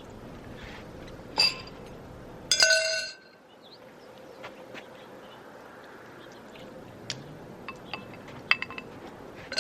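Metal cookware clinking against the cast iron Dutch oven, likely a utensil or the lid. There is one clink about a second and a half in, a louder ringing clink a second later, and a few light taps near the end.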